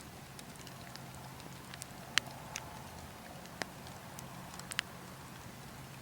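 Wood fire burning logs, crackling and popping in scattered sharp snaps over a steady low rumble of wind.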